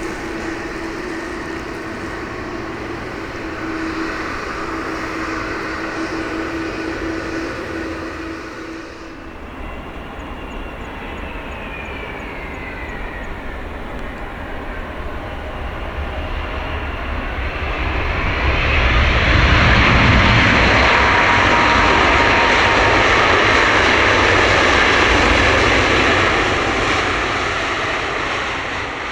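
Jet airliner engines, a Boeing 777-200ER landing: a whine falls in pitch as it passes, then a loud engine roar builds and holds for several seconds before easing. In the opening seconds, before a cut, a steadier engine hum comes from the previous airliner, a Boeing 787-8.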